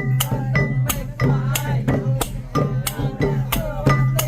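Khmer chhayam festive music: drums and other percussion strike several times a second over a steady low drone, with a wavering pitched melody above.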